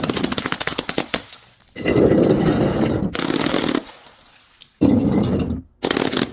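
Objects being crushed, with rapid crackling and cracking like things breaking under weight. The sound comes in several short bursts that start and stop abruptly.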